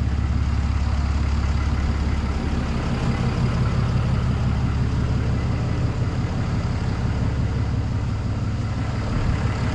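A truck engine idling steadily, a low, even hum whose pitch shifts slightly about three seconds in.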